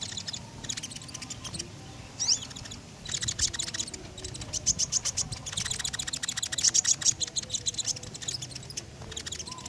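Konin songbird singing in fast, high chattering trills, runs of rapid sharp notes broken by short pauses, in full song of the kind used as a lure to set other birds singing.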